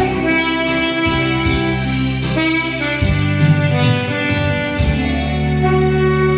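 Alto saxophone playing a slow melody in long held notes over an accompaniment with a low bass line and a steady beat.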